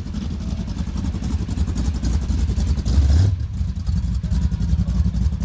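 Car engine idling loudly, with a short rev about three seconds in.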